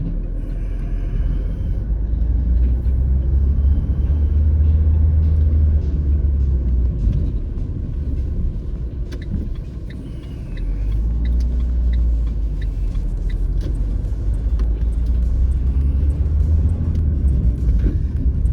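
Road vehicle rumbling from inside the cabin while driving: a steady low engine and road rumble that eases off about eight seconds in and builds again about two seconds later.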